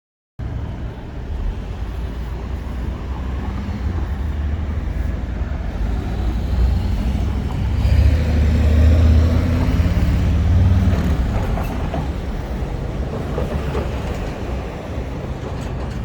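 Street traffic: a motor vehicle's engine rumbling as it passes, growing louder to a peak a little past the middle and then easing off.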